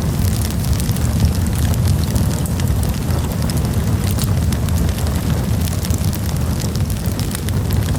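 Wood campfire burning: a steady low roar of the flames with many small, sharp crackles and pops from the burning wood throughout.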